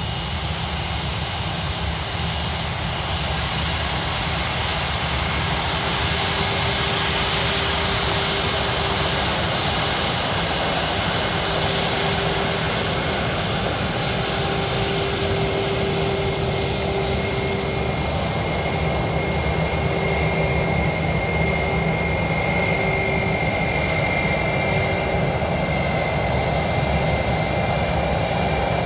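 Airbus A321 jet engines running at taxi power: a steady whine over a rumble and rush that grows slightly louder, with a higher whine coming in after about twenty seconds.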